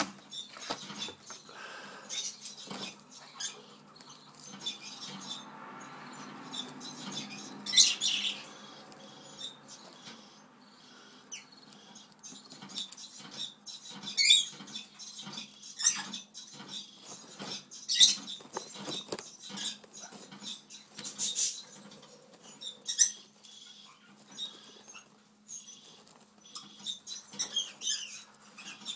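Cockatiel moving around inside a chip bag, the bag crinkling and crackling in irregular bursts, with a few louder crackles along the way.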